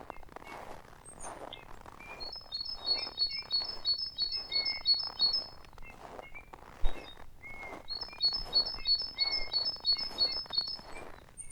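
A small songbird sings two long phrases of quickly repeated high paired notes, with a few other chirps between. Soft crunching footsteps in snow keep a walking pace underneath.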